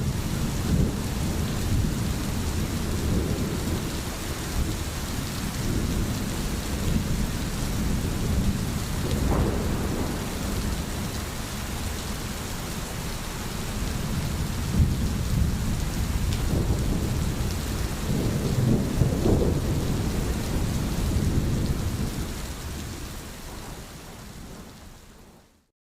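Steady rain with deep rolling thunder rumbling under it. It fades out near the end.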